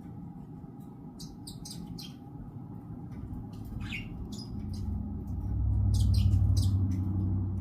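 Budgerigar chirping in short, scattered high chirps, over a low rumble that swells in the second half.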